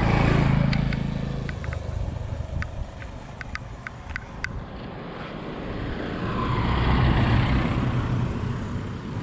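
Motor vehicles passing close by on a road: one loud at the start and fading away, then another growing louder and passing about seven seconds in.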